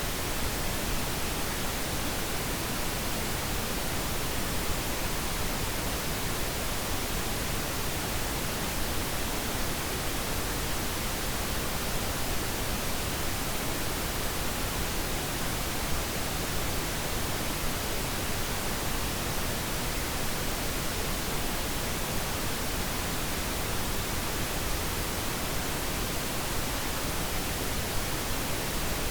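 Steady pink noise, an even, unchanging hiss across all pitches, of the kind played to help a baby fall asleep.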